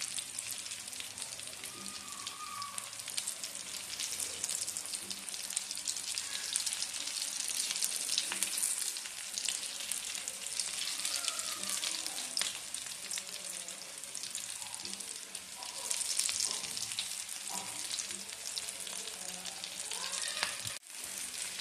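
Potato-and-chicken cutlets shallow-frying in ghee on an iron tawa: a steady crackling sizzle with many small sharp pops. The sound cuts out for a moment near the end.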